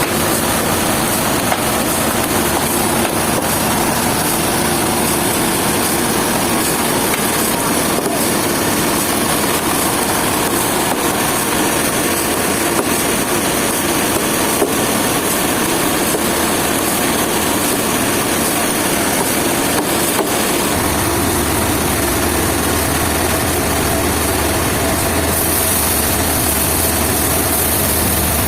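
An engine running steadily under a dense mechanical noise, with a low hum joining in about two-thirds of the way through.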